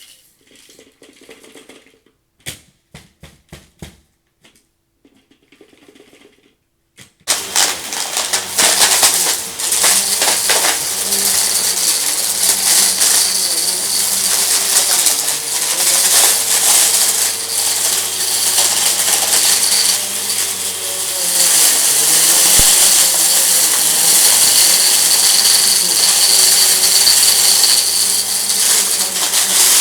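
A few faint clicks and short rattles, then about seven seconds in a vacuum cleaner switches on and runs loudly with a steady motor hum. Crunchy debris rattles and crackles as it is sucked up off the rug.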